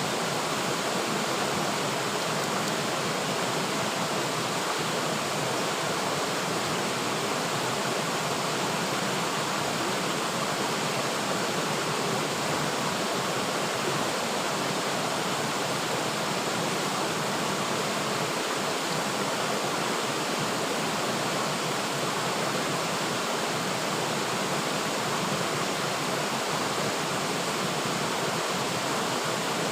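River water flowing and rushing steadily, an even, unbroken hiss of moving water.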